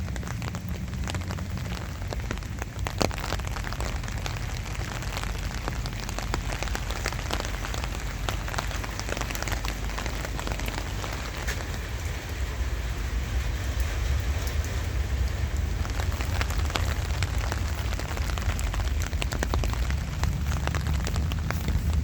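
Light rain falling, with many close raindrops ticking sharply and irregularly over a steady low rumble.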